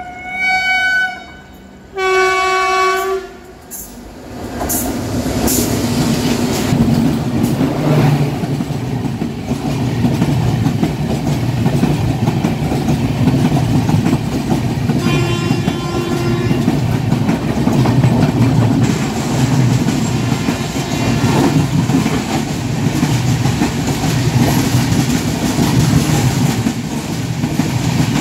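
Train horn blasts near the start, and a fainter one about fifteen seconds in, over a moving train's running noise. About four seconds in, the rumble of the wheels grows loud, with a steady clickety-clack over the rail joints.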